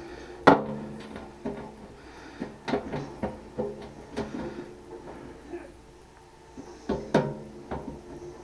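Irregular knocks and clanks of parts and tools being handled during reassembly of a central air unit's motor assembly, with a sharp knock about half a second in and two more near the end.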